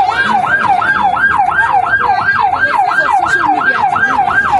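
Emergency vehicle siren sounding in a fast yelp, its pitch sweeping up and down about three and a half times a second.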